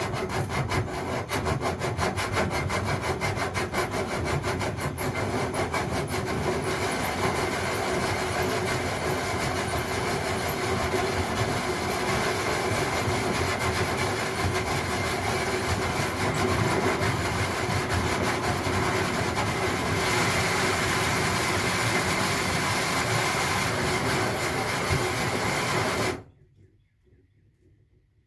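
Power drill running steadily with its bit grinding against wood, then stopping abruptly near the end. The drill is set to reverse, so the bit rubs without cutting, which is why it goes so easily.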